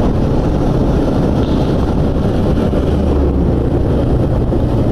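Suzuki Gixxer motorcycle engine running steadily while riding, with wind rushing over the rider's helmet microphone.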